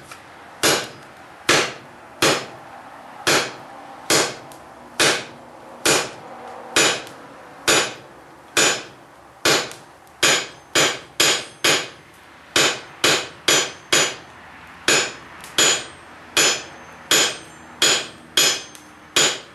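Hand hammer striking hot 1/4-inch round steel bar on an anvil, drawing out a nail with a quarter turn each hit. The blows come about once a second at first and quicken to about two a second from halfway, with a faint high ring after many of them.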